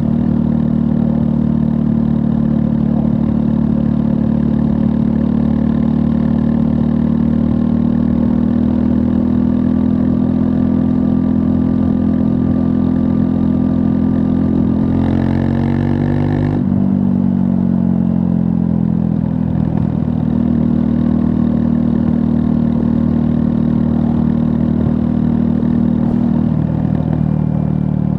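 Triumph Scrambler 400 X's 398 cc liquid-cooled single-cylinder engine running steadily under way. About halfway through the revs climb briefly, then fall away sharply before settling back to a steady note.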